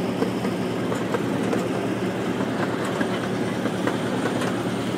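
Small park ride train running, heard from its open passenger car: a steady rumble of wheels on the track with faint scattered clicks.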